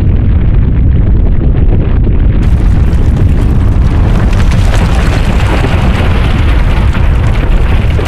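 Loud, continuous earthquake rumble sound effect, deep and noisy, growing brighter with a crackling hiss about two and a half seconds in.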